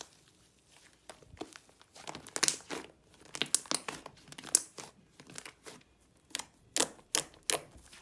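Hands pressing and stretching a strawberry cream slime, giving irregular sticky crackles and pops, which come in quick clusters with short lulls between.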